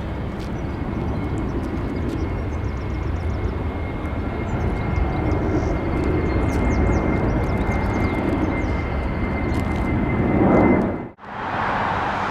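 Jet airliner taking off: the jet engines run steadily with a thin high whine over the rumble. The sound swells toward the end, then cuts off abruptly about eleven seconds in and a different rushing noise follows.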